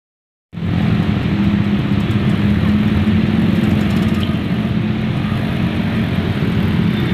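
Steady rumble of vehicle engines and traffic, starting about half a second in.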